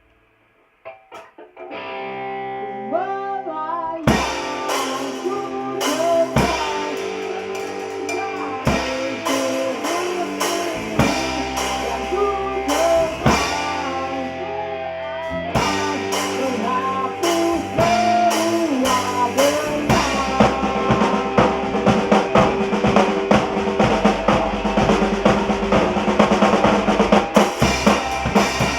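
Rock band playing an instrumental intro live: electric guitar with bent notes comes in about two seconds in, then drums and bass join about four seconds in. The drumming gets busier in the last third.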